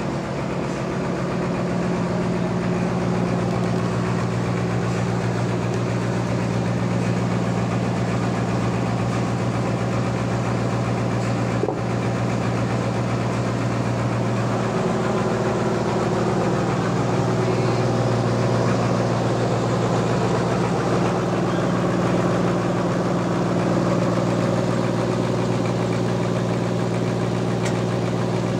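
Sawmill running steadily while sawing a large trembesi log: a continuous machine drone with a rough, noisy cutting sound over it. It shifts slightly in pitch about halfway through.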